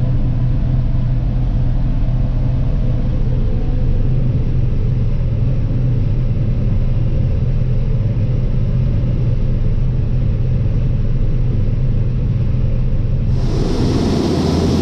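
Tractor engine running at a steady speed with a constant low drone, as grain is augered up into the bin. Near the end a hissing noise joins in.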